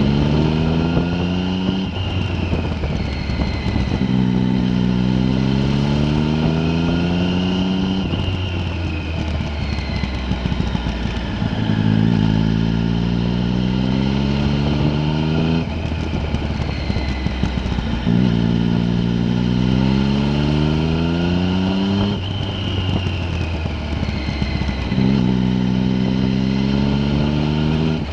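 Vehicle engine heard on board, pulling hard with its pitch rising for a few seconds, then dropping back off the throttle, again and again.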